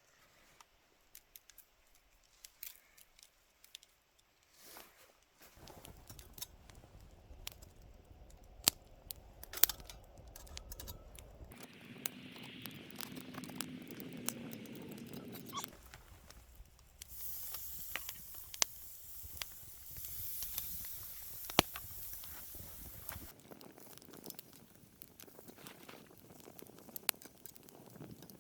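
Wood campfire crackling with frequent sharp pops, and steady hissing in stretches.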